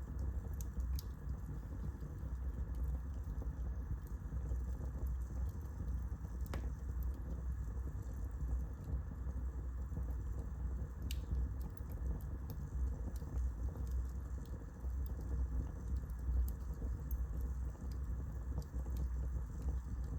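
Wood fire burning in a fireplace: a steady low rumble with a few sharp crackles, the clearest snaps about six and a half and eleven seconds in.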